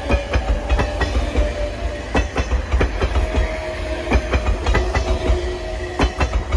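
JR Central 383 series electric train passing at low speed, its wheels clicking and knocking over rail joints and points over a deep rumble, with a faint steady tone from the running gear.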